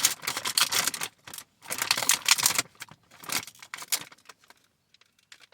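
Plastic cookie packaging crinkling and crackling in rapid clicks as it is handled and pulled open, thinning out and stopping about four and a half seconds in.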